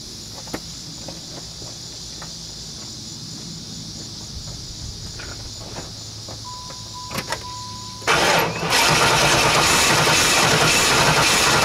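Crickets chirping, then about eight seconds in the starter cranks a 1995 Pontiac Firebird Formula's LT1 V8, loud and steady. The engine sounds like it starts to start but doesn't catch, even with fuel pressure and spark confirmed.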